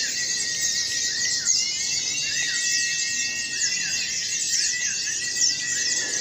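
Many white-eyes (pleci) singing at once: a dense, unbroken chatter of fast high chirps and trills, with short arched whistle notes repeating through it.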